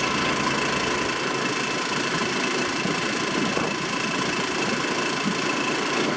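Honda 6.5 hp petrol engine running steadily, driving an air compressor's pump, with a constant whine over the engine's noise.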